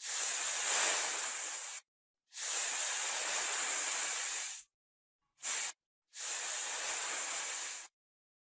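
Snake hissing: three long hisses of about two seconds each and one short hiss just past the middle, each breaking off into silence.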